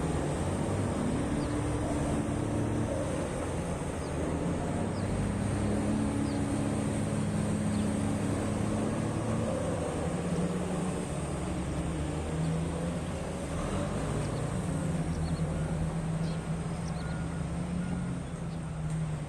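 Heavy diesel mining machinery running steadily, its engine note rising and falling slightly. Faint intermittent beeping, typical of a haul truck's reversing alarm, comes in near the end.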